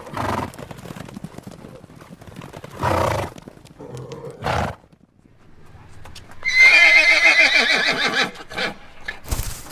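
A horse blowing three short breaths, then a loud whinny of nearly two seconds with a wavering pitch, followed near the end by hooves clip-clopping.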